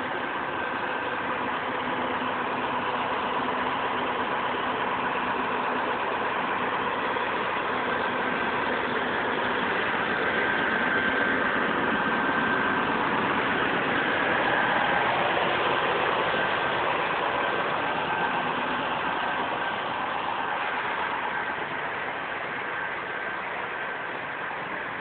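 Diesel engine of a Scania K380 double-decker coach running steadily, growing a little louder toward the middle and easing off near the end.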